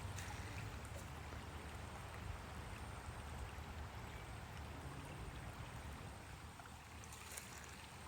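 Faint, steady sound of moving water, with a low rumble underneath.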